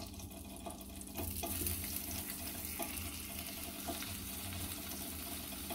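Tomato slices sizzling in melted butter in a frying pan as they are laid in one by one; the hiss gets louder about a second in.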